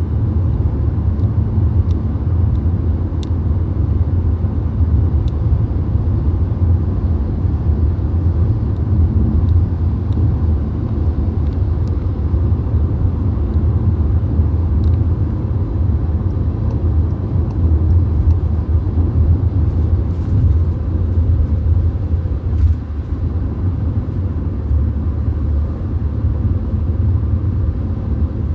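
Steady low road and engine rumble heard from inside a VW Golf cruising on the motorway, with tyre noise and a few faint ticks.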